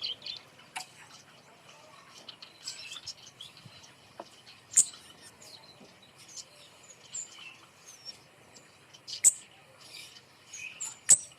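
Flowerpecker (kemade) calling: scattered short, sharp, high-pitched chirps and ticks, with three louder sharp notes about five, nine and eleven seconds in.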